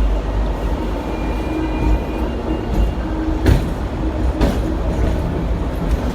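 Hong Kong double-decker electric tram running along its street track, heard on board as a steady low rumble. Near the middle there are two sharp knocks about a second apart.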